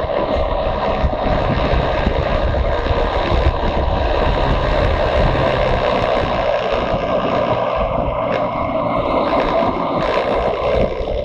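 Motorcycle riding at speed: a steady rush of wind over the microphone, with the engine running underneath.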